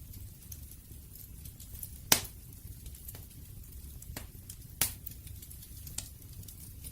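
Wood fire crackling: a low steady rumble of flames under small crackles, with a few sharp pops, the loudest about two seconds in and another near five seconds.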